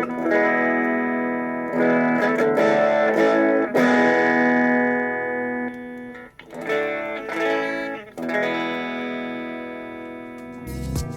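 Electric guitar strumming chords and letting each one ring, struck again several times. Near the end other music with low, regular thumps comes in.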